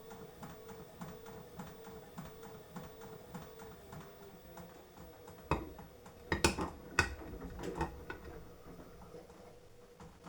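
Beko washing machine running its drum, with a wavering motor hum and a regular ticking about three times a second. A few loud clunks come from about five and a half seconds in, then it goes quieter near the end.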